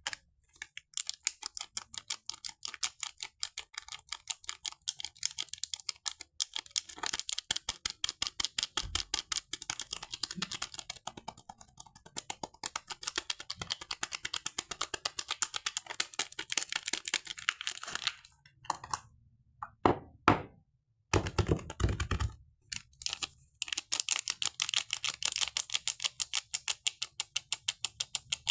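Soap packaging handled close to the microphone: a fast, steady run of crisp tapping clicks. About two-thirds of the way in, a few heavier knocks and a brief pause break the run.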